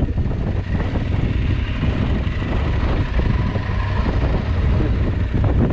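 Adventure motorcycle engine running steadily while riding off-road, with a continuous low rumble.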